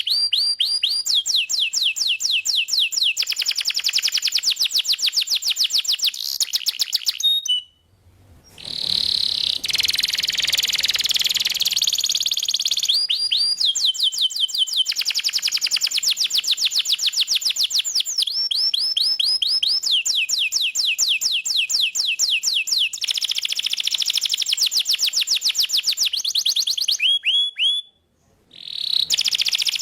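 Domestic canary singing long, fast trills of rapidly repeated notes, switching from one trill type to the next every second or two. The song breaks off briefly twice, about 8 seconds in and near the end.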